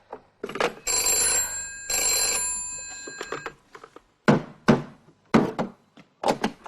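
Telephone bell ringing twice, the second ring fading away, followed by a series of sharp knocks in the second half.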